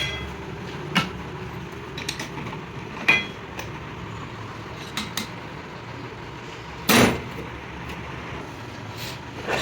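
Irregular metal-on-metal clanks and knocks, like hammer blows on steel, about nine in all and unevenly spaced, some ringing briefly. The loudest and longest comes about seven seconds in. A steady low hum runs underneath.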